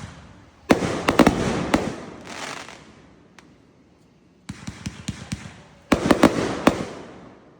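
Fireworks going off in three bursts of rapid crackling bangs, each fading away over a second or two; the last burst, near the end, is the loudest. A lone crack comes between the first two bursts.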